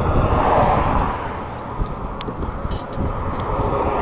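Road traffic passing on the bridge: a vehicle's rushing road noise, loudest at first and easing off after about a second and a half, with a few light clicks over it.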